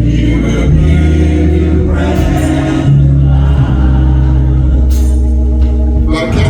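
Gospel music: sustained low chords that change every second or two, with singing over them.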